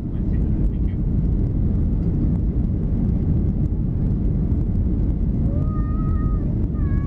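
Steady, loud cabin noise of a Boeing 737-300 in flight: the low rumble of its CFM56 jet engines and rushing air heard inside the passenger cabin.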